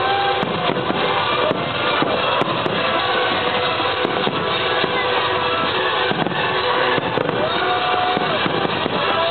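Aerial fireworks display, with many shells bursting together in a continuous, dense crackling and popping that never pauses. Music plays underneath, with a few held tones running through it.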